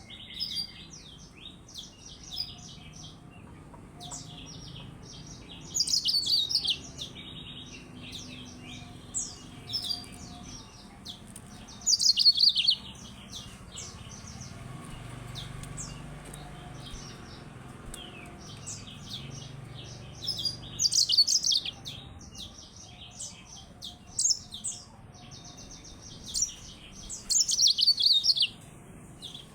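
Yellow-fronted canary (Mozambique siskin) singing: a run of quick, high chirps and trills, broken by several louder bursts of song.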